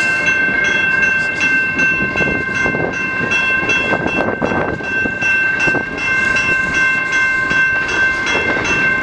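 A railroad crossing bell rings steadily with evenly repeating strikes, over the rumble of a CN freight train on the track.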